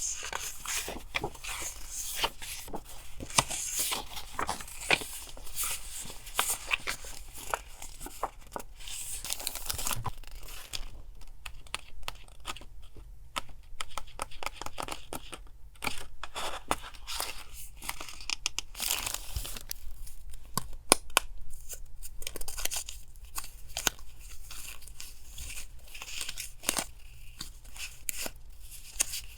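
Paper being handled by hand: irregular tearing, crinkling and rustling, with light taps and clicks. It eases off for a few seconds near the middle.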